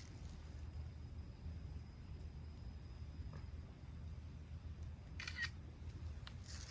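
Quiet outdoor ambience with a steady low rumble, broken about five seconds in by a short cluster of sharp crackles and pops from a small wood fire.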